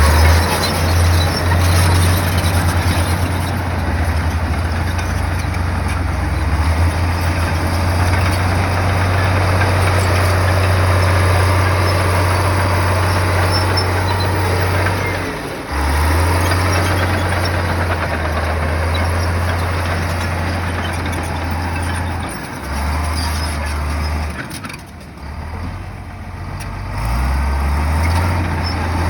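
Heavy bulldozer's diesel engine running hard, a loud low drone with mechanical noise over it. The drone drops away briefly about halfway through and again for a few seconds near the end.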